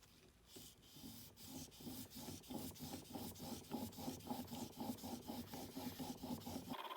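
A plane iron being sharpened on an abrasive, rubbed back and forth in quick, even strokes, about three a second.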